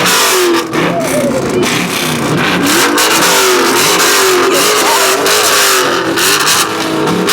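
A car engine revving hard and loud, its pitch climbing and dropping again and again without settling.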